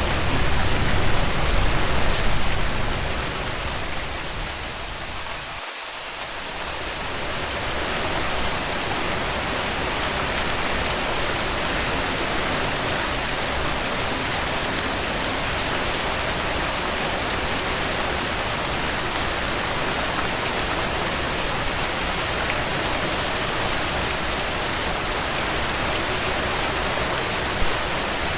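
Steady rain pattering on a tent. It is loudest, with more low rumble, for the first few seconds, dips briefly about five seconds in, then runs on evenly.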